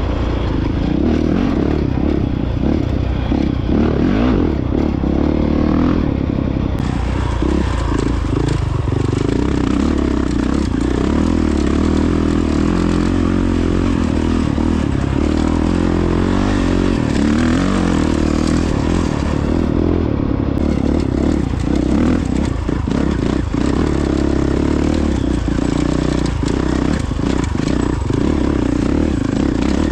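Honda CRF450X dirt bike's single-cylinder four-stroke engine running under way on an off-road trail, its pitch rising and falling with the throttle, with frequent clattering knocks from the bike over rough ground.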